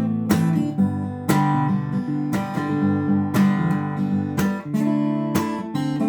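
Acoustic guitar played with the fingers: bass notes and struck chords with a strong stroke about once a second, the notes ringing on between strokes.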